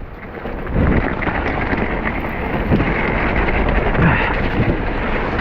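River water rushing in a steady, loud roar of noise, with wind buffeting the microphone in a few low thumps.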